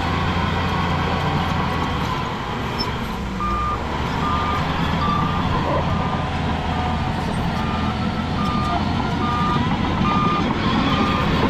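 Heavy diesel machinery running, and from about three seconds in a reverse alarm beeping steadily, about one and a half beeps a second, as a heavy vehicle backs up.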